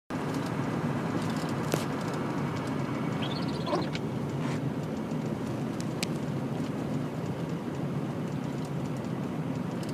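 Steady low engine and road rumble heard from inside a moving vehicle driving on snowy streets. A sharp click comes near the two-second mark and another about six seconds in, with a brief high squeak between them.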